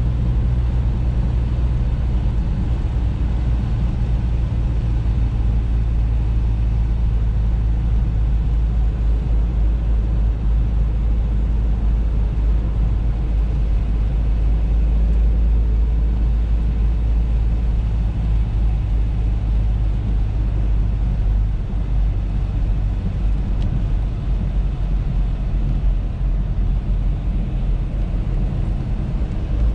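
Audi A3 driving at a steady pace: continuous low engine hum and road rumble.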